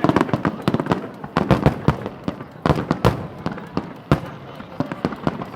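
Fireworks going off in quick succession: a rapid run of sharp bangs and crackles, several a second, with echoes trailing after them.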